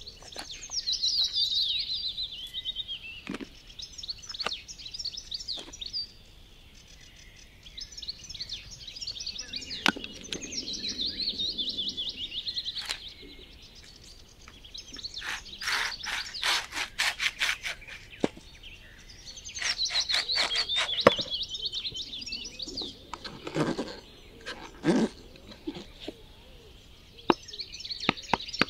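Songbirds singing repeated high warbling phrases, with a rapid run of clicks about halfway through and a few scattered knocks near the end.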